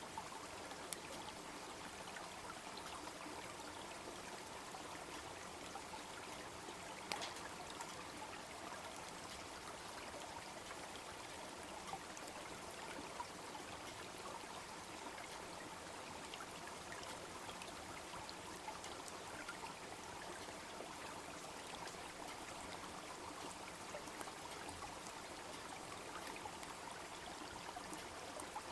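Small brook babbling steadily, with scattered crackles and pops from a wood campfire; the loudest pop comes about seven seconds in.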